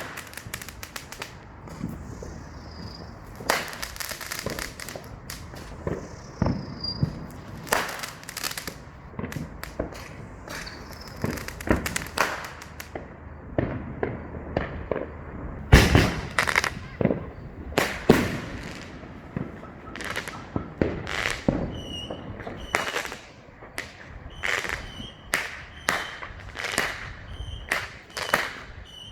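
Many consumer fireworks going off across a neighbourhood: irregular bangs and pops overlapping one another, with the loudest bang about halfway through.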